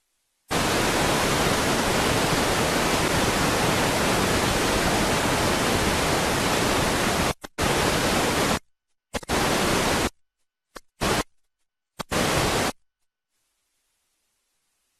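Loud, even static hiss that switches on abruptly, holds steady for about seven seconds, then cuts in and out in a few short bursts before stopping dead.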